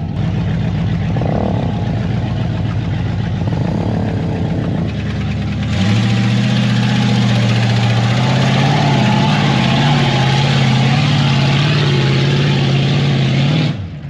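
Engine of a 1989 Chevy K1500 pickup running smoothly. About six seconds in it gets louder and the pitch steps up as it revs, then the sound drops off abruptly near the end.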